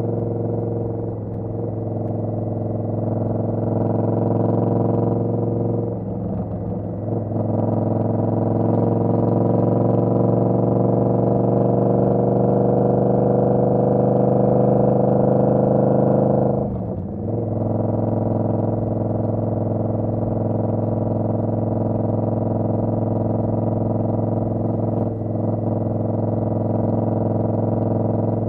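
Indian Scout Bobber's V-twin engine running under way. Its pitch climbs slowly as the bike accelerates in one gear, with short drops about six seconds in and again past the halfway point where it shifts, then it holds a steady cruise.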